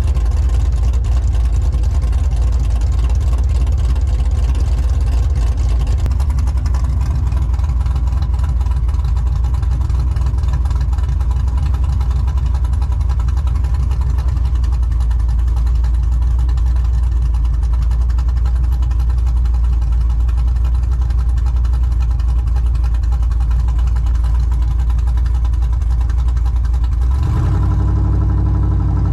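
Cammed 5.3 L LM7 V8 with a TSP 224R camshaft and long tube headers, running at a steady idle with a deep, heavy rumble. The sound shifts abruptly near the end but stays steady rather than revving.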